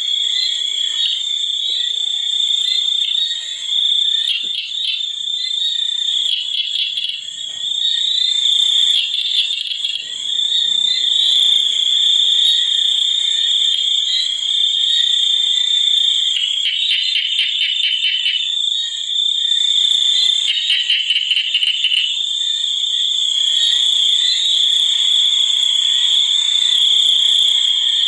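Night chorus of frogs and insects: a steady high-pitched insect drone runs throughout, with frogs calling over it in short rapid trills, two of them longer, past the middle.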